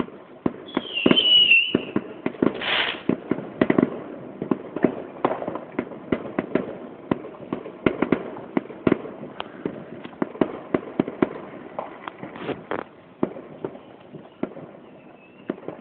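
Fireworks going off in quick succession: many sharp bangs and crackles, with a high wavering whistle about a second in.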